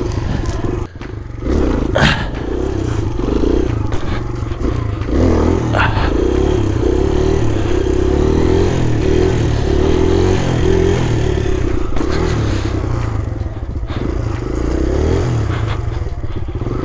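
Kawasaki KLX140R dirt bike's single-cylinder four-stroke engine running under a rider, the throttle opening and easing so the engine note keeps rising and falling. A couple of short clattering knocks come about 2 and 6 seconds in.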